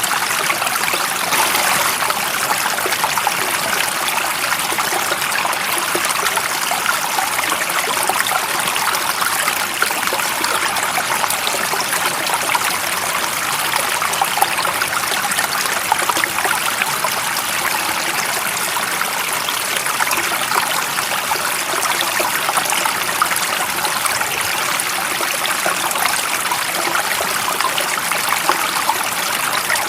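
Flowing stream water, a steady rushing and trickling with a fine splashy texture that keeps an even level throughout.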